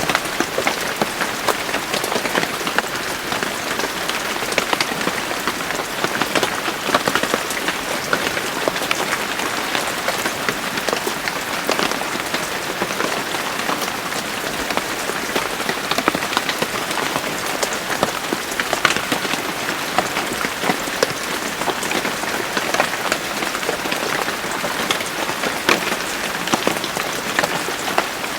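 Steady rain falling, a dense even hiss with many separate drops ticking on a surface.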